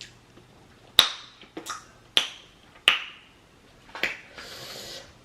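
Close-up eating sounds from a saucy seafood boil: five sharp, wet smacking clicks spaced about half a second to a second apart. A brief rustling hiss comes near the end.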